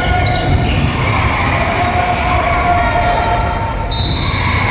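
Basketball game in a gym: steady crowd and court noise with a ball bouncing, and short high squeaks near the end.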